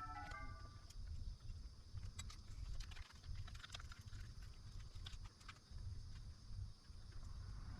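Faint, irregular clicks and light knocks over a low, steady rumble.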